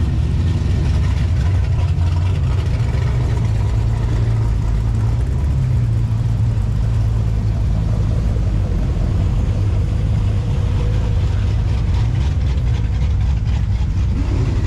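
Car engine running steadily with road noise while cruising, a low drone that swells slightly about five seconds in.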